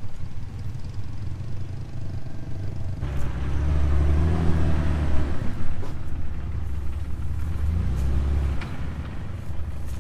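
Jeep engine running at low speed under load, its rumble growing louder about three seconds in as it is pushed harder, with a few light knocks.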